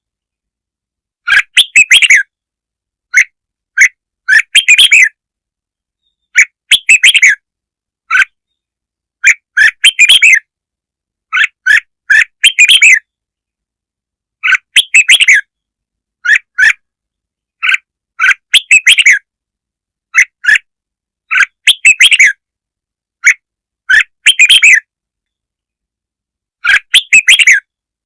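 Red-whiskered bulbul song, used as a lure recording: short, bright chirping phrases repeated every second or two, with total silence between them.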